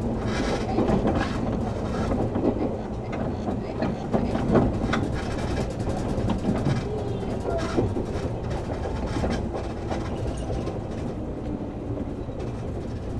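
Interior running sound of a JR West 113 series 7700 subseries electric train between stations: a steady rumble of wheels and running gear, with short clicks of the wheels over rail joints.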